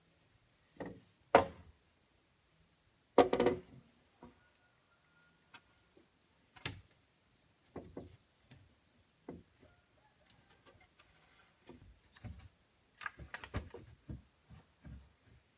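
Irregular wooden knocks and thuds of timber being handled and struck, about a dozen separate hits. The two loudest come in the first few seconds, and a quicker run of smaller knocks follows near the end.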